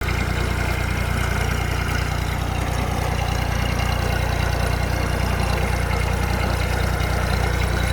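Tractor engine running steadily at low revs, with a deep, even hum.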